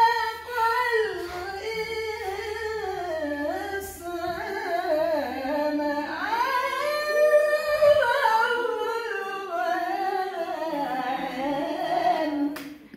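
A single voice chanting long, ornamented melodic phrases in the style of Quranic recitation in a maqam, pausing briefly for breath about four and six and a half seconds in.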